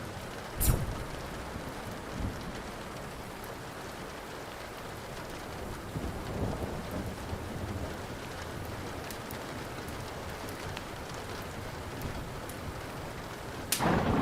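Steady rain with the light crackle and ticking of a wood fire, a sharp crack about a second in, a low rumble of thunder around the middle, and a loud thunderclap near the end that rolls on.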